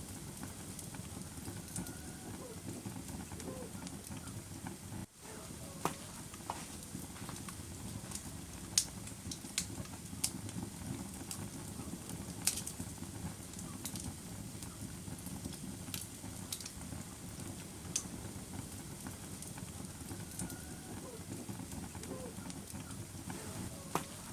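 Wood fire crackling: a steady low rumble of burning with scattered sharp pops and snaps every second or so. The sound dips briefly about five seconds in.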